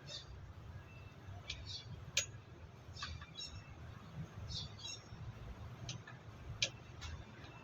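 A string of short, sharp clicks and light knocks, about ten of them at uneven intervals, over a low steady rumble.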